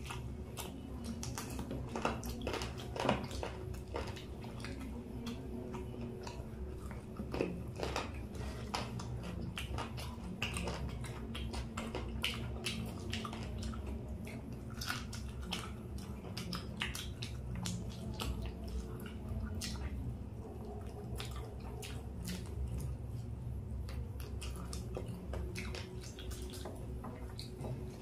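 Close-up chewing of raw garlic: many short wet crunches and mouth clicks in an irregular run, over a steady low hum.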